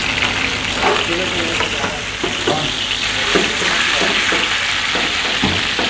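Gram-flour dumplings (gatte) shallow-frying in desi ghee in a frying pan: a steady sizzling hiss with fine crackle, broken by occasional light knocks.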